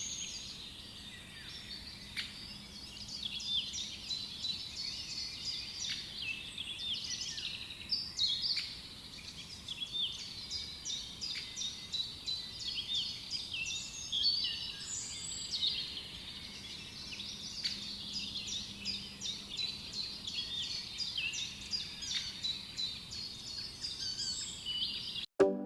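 A chinchilla chewing dry hay: fast runs of crisp crunching ticks, several a second, broken by short pauses, with a few short high chirps now and then.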